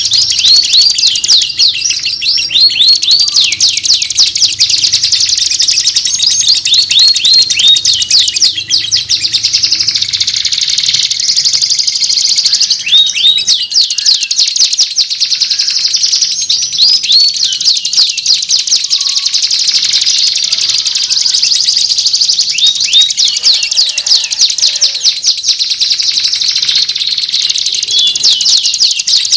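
Oriental magpie-robin (kacer) song played as a training master track: a loud, unbroken stream of rapid chirps, whistles and quick rising and falling trills.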